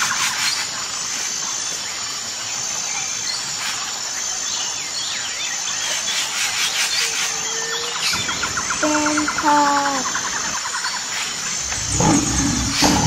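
Wild bird calls over outdoor ambience: repeated high whistles, scattered chirps, and a rapid trill with a short two-note call about nine seconds in. Near the end a louder, rough low rumble comes in.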